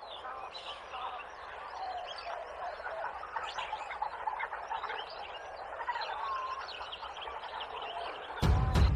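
Dense rainforest chorus of frogs and birds, many short chirps and whistles overlapping. About eight seconds in, loud booming drum-heavy music cuts in.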